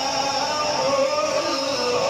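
Quran recitation: one voice holding a long, slowly wavering note without a break.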